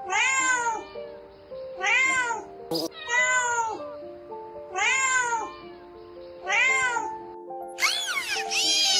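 Domestic cat meowing, five separate meows about a second and a half apart, each rising then falling in pitch, followed near the end by a quicker cluster of higher, overlapping calls. A simple background tune plays underneath.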